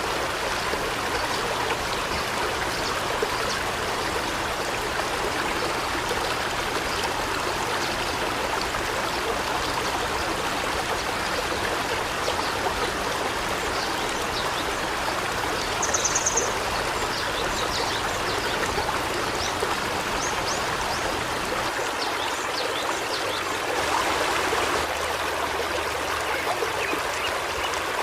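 River water flowing steadily over rocks, with a brief high bird call about sixteen seconds in.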